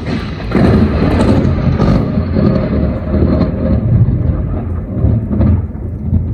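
A long roll of thunder that swells about half a second in and rumbles on unevenly.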